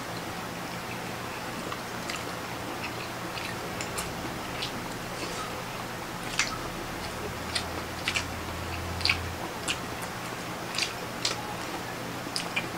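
Close-miked eating: wet chewing and biting of sweet chili octopus and rice, heard as irregular sharp mouth clicks and smacks over a steady hiss, busiest in the middle of the stretch.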